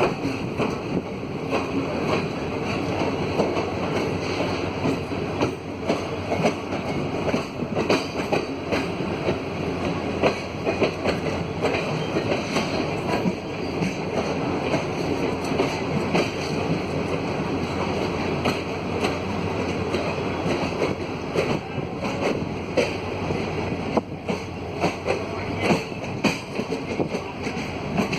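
Freight train wagons rolling on the track: a continuous rumble with many short, irregular clacks of the wheels going over rail joints.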